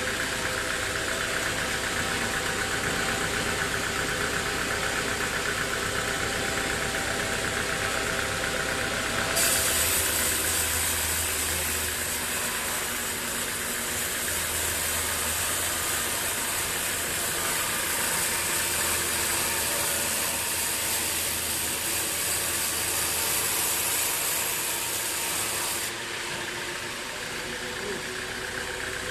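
Sawmill machinery running with a steady engine-like hum. About ten seconds in, a loud high hiss and a deeper hum join it, then cut off abruptly near the end.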